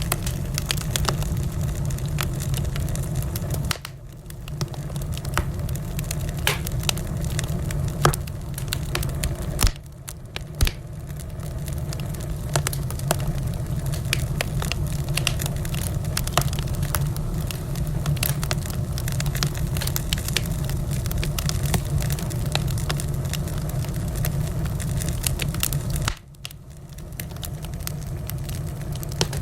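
Wood fire crackling in a fireplace: many sharp pops and snaps over a steady low rumble. The sound drops away briefly three times, about four, ten and twenty-six seconds in.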